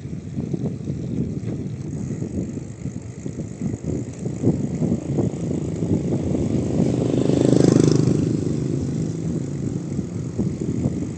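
A motor vehicle's engine passing close by, growing louder to a peak a little past the middle and then fading, over the steady rumble of riding a bicycle on a rough road with wind on the microphone.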